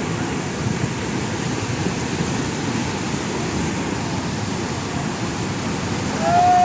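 Flooded creek rushing past as a steady, even roar of water. Near the end a single short call is heard over the water, held at one pitch.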